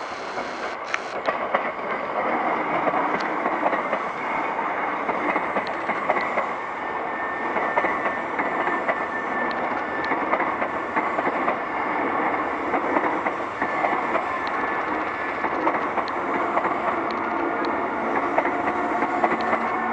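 Hankyu 3300 series resistance-controlled electric train pulling away and gathering speed, wheels clattering over rail joints in rapid clicks. A traction motor tone rises near the end.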